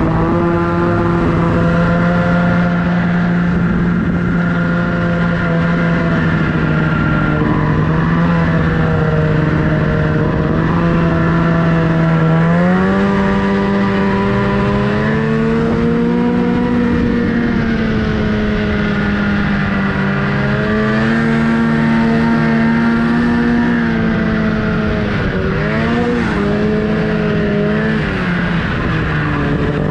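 Snowmobile engine running steadily under throttle. Its pitch climbs about halfway through and stays higher, wavers a couple of times, then falls back near the end.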